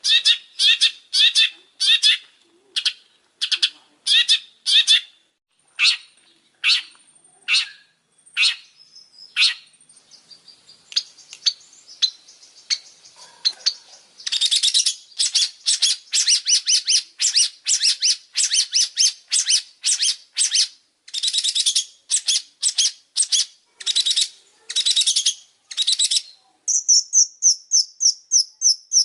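Long-tailed shrike (pentet) singing a long run of short, harsh chattering notes, at first a few a second, then packed into a fast continuous run about halfway through, and changing to a quick, high, even trill near the end.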